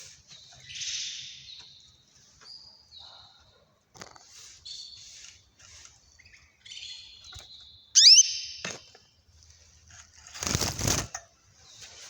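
Small caged birds chirping in short high calls, with one loud rising call about eight seconds in. A brief burst of wings fluttering comes near the end.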